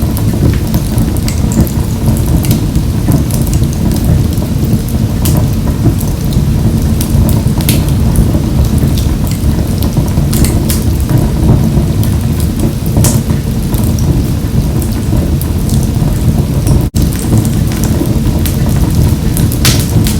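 Wood fire burning in a wood-burning stove: a steady low roar of flames with scattered sharp crackles and pops. The sound cuts out for an instant about seventeen seconds in.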